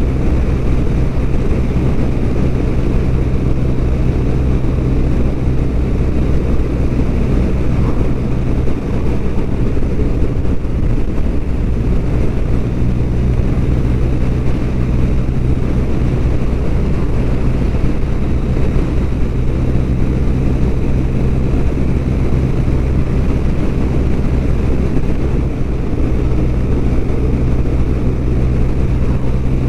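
BMW R1200RT's flat-twin boxer engine running at a steady cruise under wind and road noise.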